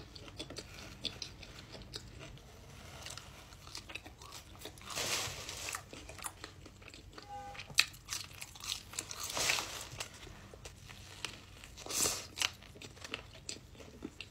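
A person chewing and biting into a Big Mac and McDonald's french fries: close, wet mouth sounds of chewing with small clicks. Several louder crunchy bites come a few seconds apart.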